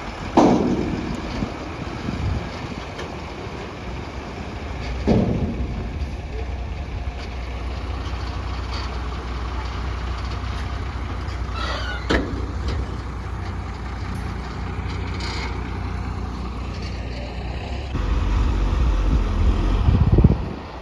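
Diesel engine of a JCB backhoe loader running under load, with heavy thumps about half a second in, about five seconds in and about twelve seconds in. The engine grows louder and heavier for the last few seconds, then drops away sharply just before the end.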